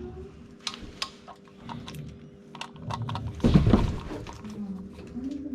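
Scattered small clicks and knocks of hands working on wiring in a control panel, with one louder rustling thump about three and a half seconds in, over a faint steady hum.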